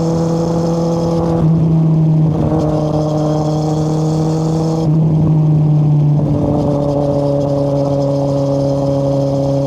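2013 Kawasaki Z800's inline-four engine running through an Akrapovic exhaust with its dB killer removed, under way at fairly steady revs. The engine note shifts slightly a few times, about a second and a half, five and six seconds in.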